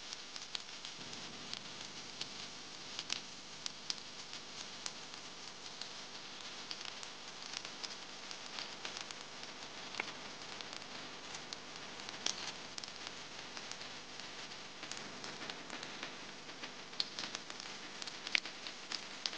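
Sliced mushrooms sizzling in olive oil in a stainless steel pan: a steady frying hiss with many small pops and crackles scattered through it.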